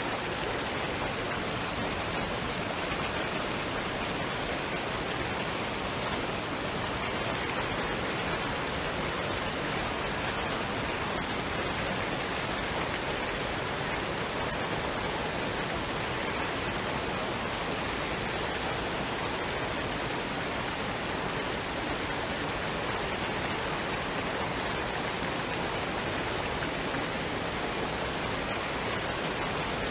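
Waterfall and stream water rushing in a steady, unbroken hiss.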